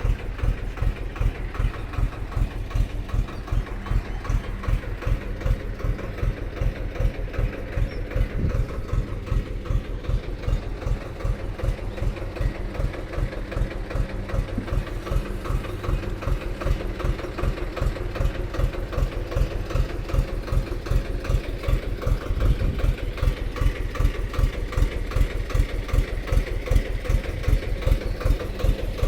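Mini tractor's diesel engine idling, with a steady, even run of pulses that gets slightly louder about two thirds of the way through.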